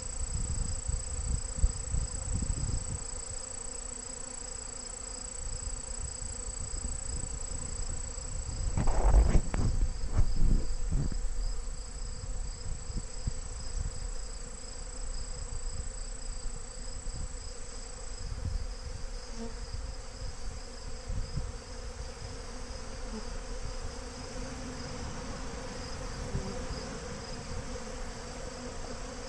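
Swarm of robber honey bees buzzing around a beehive, a dense steady hum: the sound of a hive being robbed. Low rumbles and thumps come about nine to eleven seconds in.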